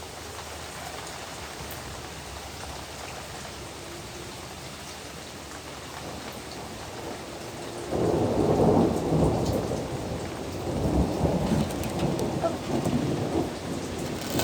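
Steady rain falling, then about eight seconds in a loud rolling rumble of thunder breaks in and swells again a few seconds later.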